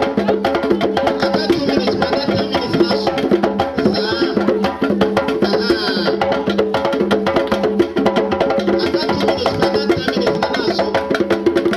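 Percussion music: fast, dense drum strokes with clicking wood-block beats over steady held tones.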